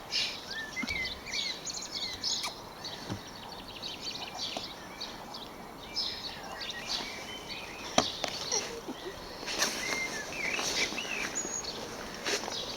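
Small birds chirping and singing, several calls overlapping, with a few sharp clicks, the loudest about eight seconds in.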